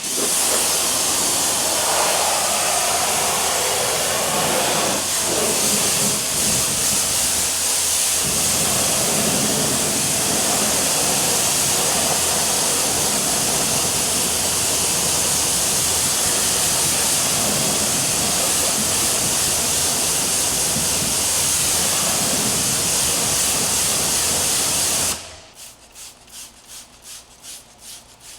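Car-wash equipment spraying or blowing with a loud, steady hiss over a low motor hum. It cuts off suddenly a few seconds before the end and gives way to a soft rhythmic swishing, about three strokes a second.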